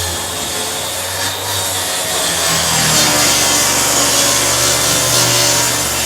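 Kreg track saw running and cutting through a sheet of plywood, a loud, steady saw noise.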